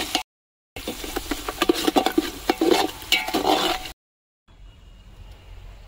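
Onions frying in hot oil in a large pot, stirred with repeated scraping and clacking against the pot over a steady sizzle. The sound cuts out abruptly twice, and after about four and a half seconds only a faint background remains.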